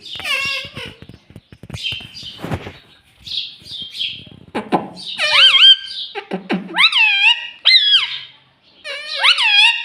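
Pet talking parrot vocalising: soft clicks and scratchy chatter at first, then from about halfway a series of loud, swooping calls that rise and fall in pitch, about five of them.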